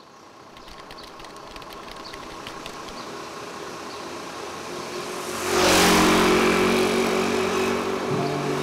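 Street traffic noise fading in, then a vehicle passing close by about five and a half seconds in, followed by a steady engine hum.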